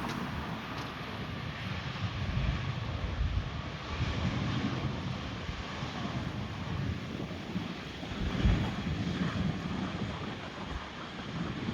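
Jet airliner engine noise as a steady wash, with irregular gusts of wind buffeting the microphone, the strongest about eight seconds in.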